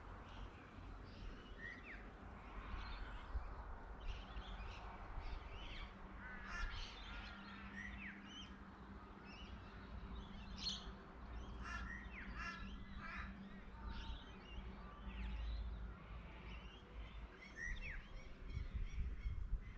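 Several wild birds calling: many short chirps and calls, some with quick pitch sweeps, scattered throughout, over a low steady rumble.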